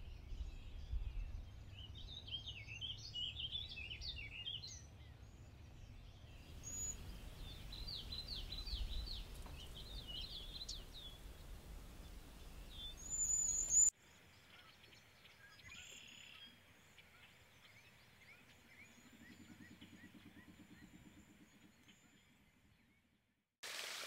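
Wild birds chirping and calling, with quick clusters of high notes in the first half and a few very high, thin whistled notes of the kind cedar waxwings give. The calls turn fainter after an abrupt change about 14 seconds in.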